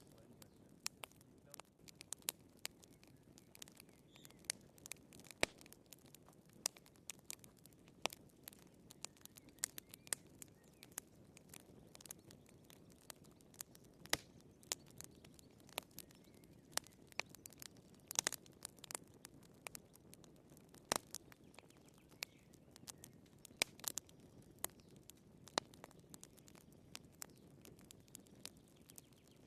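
Wood fire burning in a fireplace, crackling: irregular sharp pops and snaps, several a second at times, over a soft steady rush of the flames.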